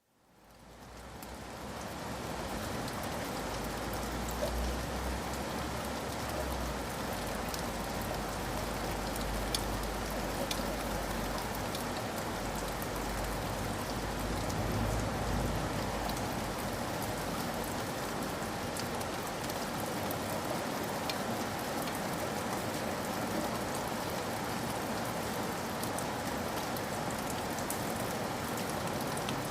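Steady rain falling, an even hiss with scattered sharper drop ticks, fading in over the first two seconds. A low rumble sits underneath during the first half, then eases.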